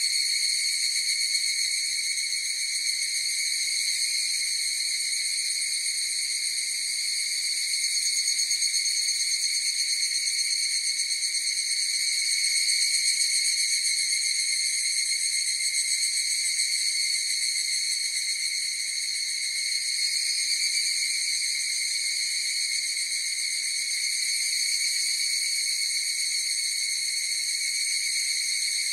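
Chorus of higurashi (evening cicadas) calling together, blended into one steady, high-pitched ringing drone that never pauses.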